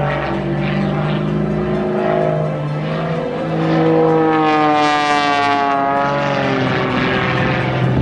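Pitts Special S-2S aerobatic biplane flying its display: the six-cylinder Lycoming engine and propeller running hard, the pitch sliding up and down as it manoeuvres. It is loudest and brightest about four to five seconds in, as it comes by closest.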